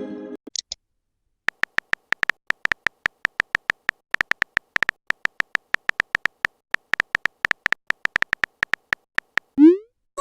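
Message-typing sound effect: a fast, uneven string of short electronic beeps, several a second. A quick rising swoop comes near the end.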